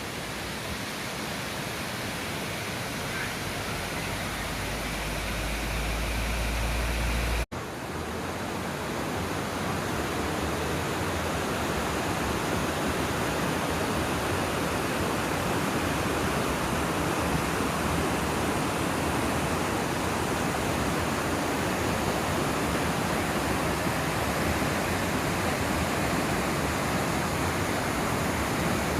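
Waterfall: steady rushing water, growing gradually louder. A deep rumble builds over the few seconds before a brief dropout about seven and a half seconds in, after which the rushing carries on louder.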